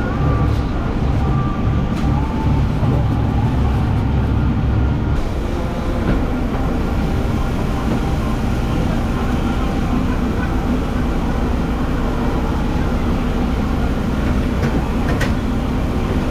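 Steady vehicle rumble, like road noise inside a moving vehicle. About five seconds in the deep rumble drops and a higher hiss takes over.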